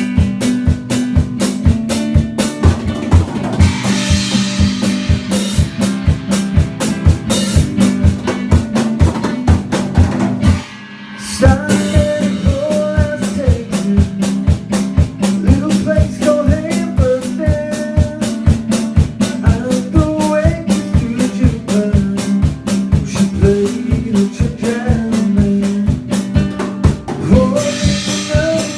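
Live band playing an instrumental passage: a drum kit keeps a steady beat over a sustained bass, and the whole band stops dead for about half a second around eleven seconds in before a lead instrument comes back in with a wandering melody line.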